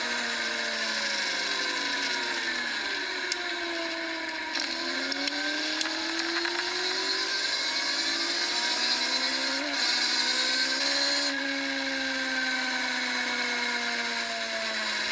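Racing motorcycle engines at high revs, their pitch repeatedly rising and falling with gear changes and throttle, more than one engine heard at once.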